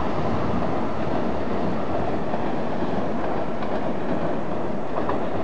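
E4 series double-deck Shinkansen, sixteen cars long, pulling away from the station. Its wheels and running gear give a steady rumble on the track, with a few faint clicks.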